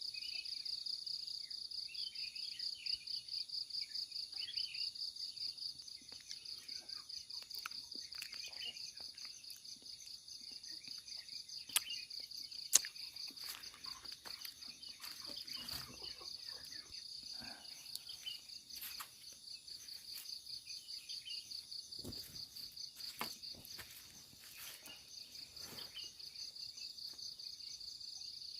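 A steady, high, pulsing drone of insects, with birds chirping over it here and there. Two sharp clicks come about twelve seconds in.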